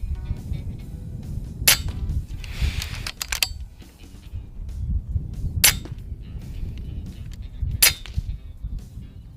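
Three sharp gunshots, the first about a second and a half in, then two more about four and two seconds apart. Between the first two come a few smaller clicks and a rustle, all over a low rumble and background music.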